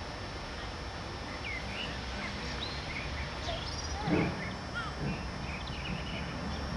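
Small birds chirping in short quick notes over a steady low rumble, with one louder call about four seconds in that falls in pitch.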